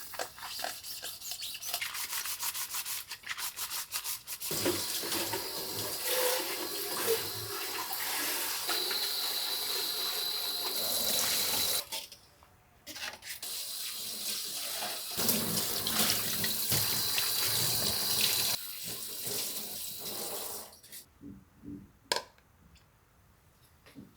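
Tap water running into a sink, stopping suddenly about halfway and starting again, then stopping once more past the middle. A few seconds of quick scrubbing or rubbing strokes come before the water is turned on.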